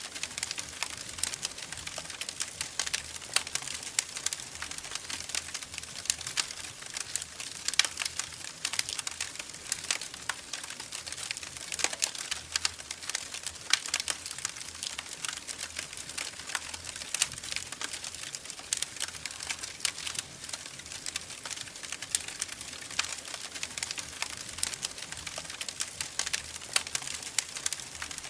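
Wood fire crackling in a fireplace: a dense, irregular stream of small pops and snaps over a soft steady hiss, with a few sharper pops standing out.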